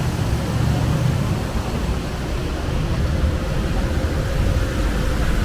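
Wind buffeting the microphone, a loud, gusty low rumble. A faint hum rises slowly in pitch in the second half.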